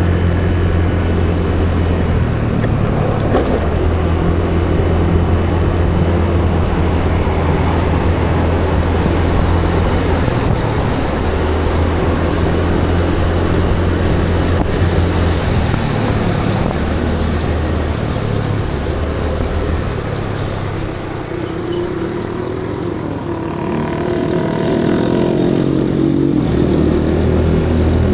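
Motorcycle engine running steadily under way, with a low hum that rises and falls with the throttle, over road and wind noise. It eases off briefly about three quarters of the way through, then picks up again.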